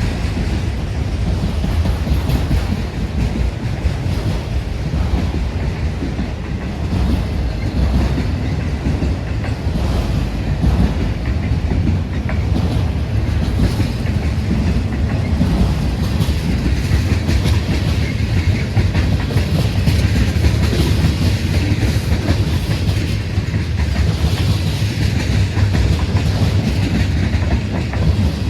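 Freight train rolling past steadily, the wheels of its cars clicking over the rail joints under a continuous low rumble.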